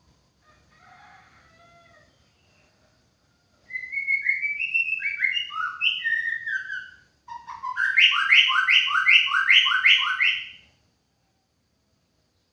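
White-rumped shama singing: a run of loud, falling whistled notes, then after a short break a fast string of repeated notes, about three a second, that stops abruptly.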